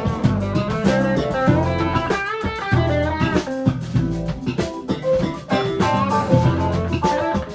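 Band playing an instrumental break, with a guitar carrying the melody over bass and drums.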